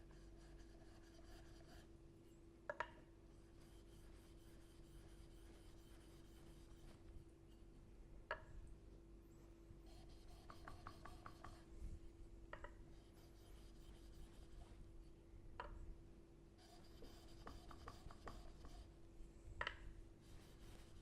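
Laminated steel blade rubbed in short, faint strokes on a fine sharpening stone to take off the burr, with a few sharp clicks as the blade meets the stone, over a steady hum.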